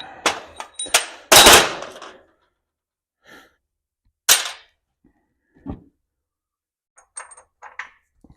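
Knocks and clatter of metal parts and tools being handled in a shop: several sharp hits, the loudest and longest about a second and a half in, another just after four seconds, then a few faint clicks near the end.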